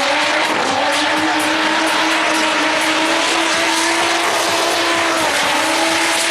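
Audi A2 Quattro's turbocharged 2.2-litre 20-valve inline five-cylinder running at high revs while drifting. The pitch climbs in the first second, holds steady, and dips briefly about five seconds in, over a steady hiss of sliding tyres.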